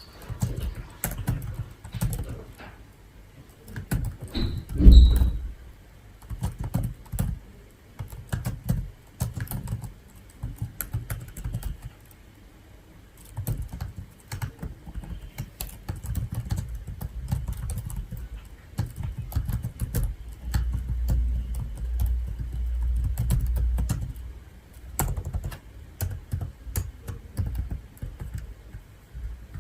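Typing on a computer keyboard: irregular clicking of keys, with low thuds beneath and one louder knock about five seconds in.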